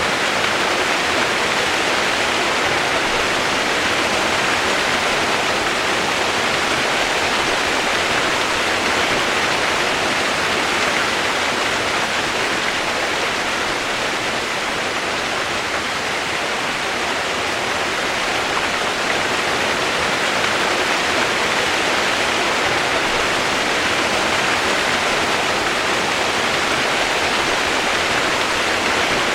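Rain-sound white noise: a steady, even hiss of rain with no single drops or other sounds standing out, strongest in the upper-middle range.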